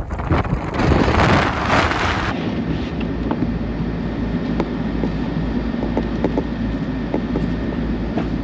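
Blizzard wind blasting across the microphone for about two seconds, then it cuts off suddenly to a steady low vehicle engine hum with a few faint ticks.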